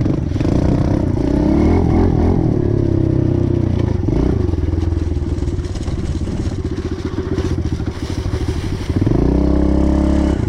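Pit bike's small single-cylinder four-stroke engine running with a rapid, even putter. It revs up about a second in and again near the end.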